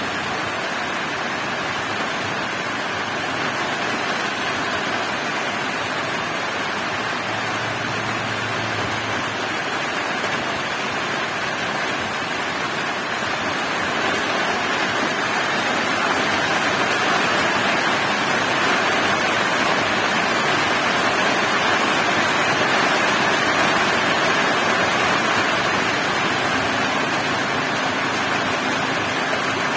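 Heavy rain pouring steadily, a little louder about halfway through.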